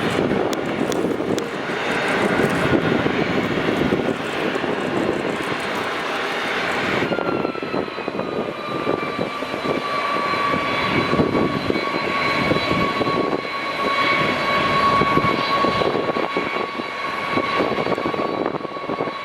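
Airbus A330 MRTT tanker's jet engines running: a steady rushing roar, joined about seven seconds in by a high whine that dips slightly in pitch and then holds steady.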